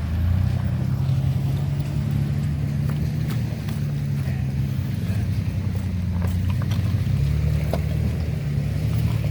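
A 2010 Toyota Tacoma TRD Off Road pickup driving along a dirt trail: a steady low engine drone, with scattered light clicks and knocks throughout.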